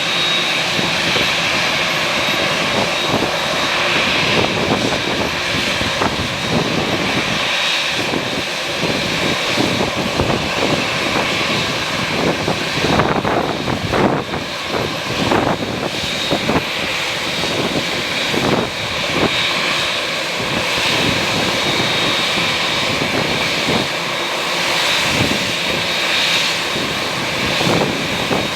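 Airplane engines running steadily, with a thin high whine, under the irregular rumble of strong wind gusting on the microphone.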